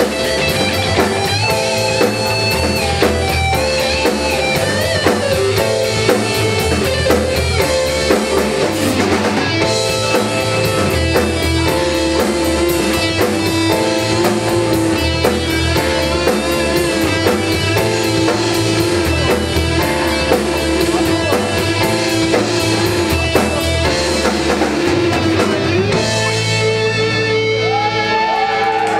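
Rock band playing an instrumental passage: electric guitars over bass and a steady drum kit beat. About three seconds before the end the drumming thins out and the guitars hold long ringing notes, one bending in pitch, as the song winds down.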